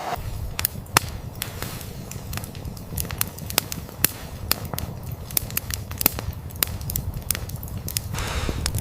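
Wood fire crackling, with sharp irregular pops several times a second over a steady low rumble.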